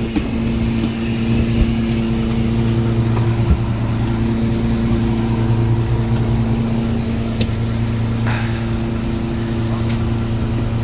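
Fishing boat's engine running steadily with a low, even hum, with a few light knocks over it.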